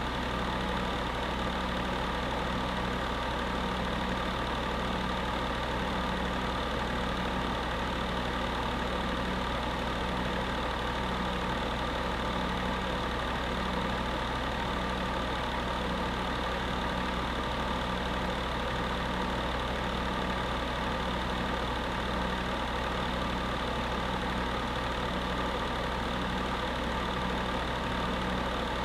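Space heater running steadily: a constant fan whir over an electrical hum, with a low throb in the hum repeating about once a second.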